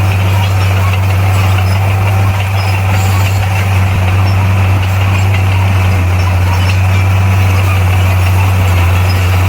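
Heavy earthmoving machine's diesel engine running steadily with a loud, even low hum.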